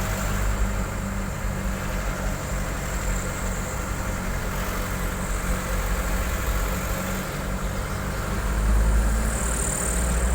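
Vehicle engine running steadily at low speed in slow-moving traffic, a low hum that grows louder near the end.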